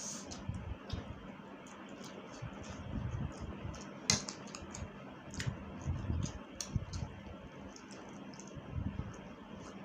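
Close-up eating sounds of Korean fire noodles being chewed, with scattered wet mouth clicks and smacks and a sharper click about four seconds in.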